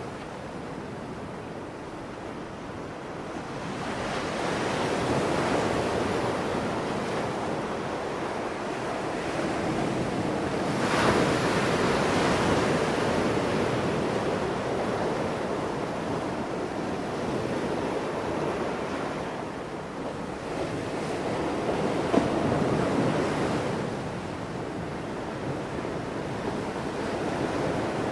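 Sea waves breaking on the shore below a cliff, coming in slow surges several seconds apart, with one sharper break about eleven seconds in. Wind blows across the microphone throughout.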